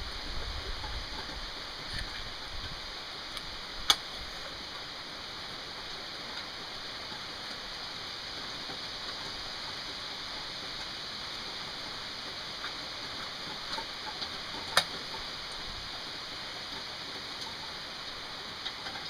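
Steady rain falling, an even hiss, with two sharp taps, one about four seconds in and one near the end, and a few fainter ticks.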